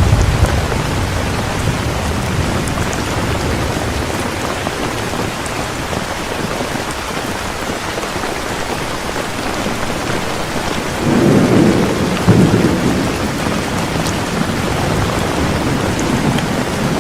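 Heavy rain falling steadily, with thunder rumbling low for about two seconds around eleven seconds in.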